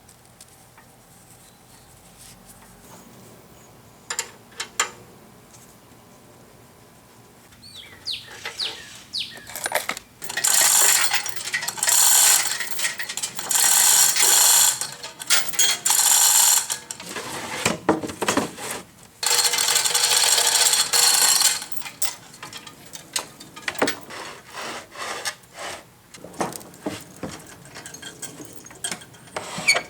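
Heavy planer table being shifted and dragged on metal: a few knocks, then, from about ten seconds in, long loud stretches of metal scraping and grinding, broken by shorter scrapes and knocks.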